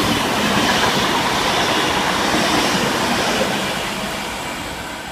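V-set intercity double-deck electric train running through the station, a steady rush of wheel-on-rail and motor noise that fades in the last second or two as it moves away.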